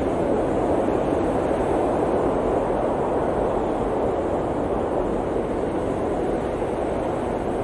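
Steady blizzard wind blowing, a dense, even rushing noise that holds level with no gusts or breaks.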